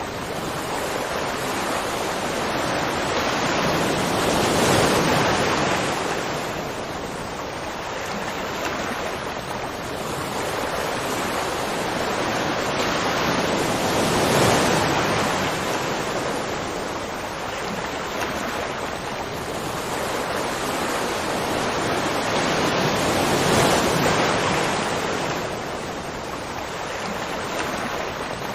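Continuous rushing water, a dense hiss that swells and eases in slow surges about every nine seconds.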